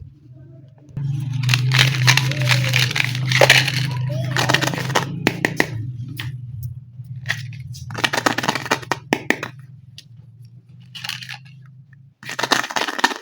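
Plastic toy packaging crinkling and rustling in several bursts, with small clicks and taps of plastic parts being handled, over a steady low hum.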